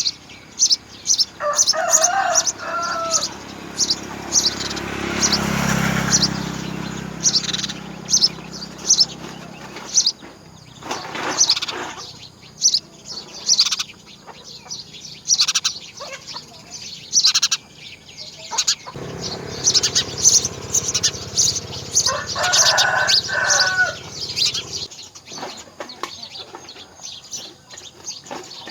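Birds chirping: rapid, short high-pitched chirps repeat throughout, with two brief lower, bending calls, one about two seconds in and one past the twenty-second mark.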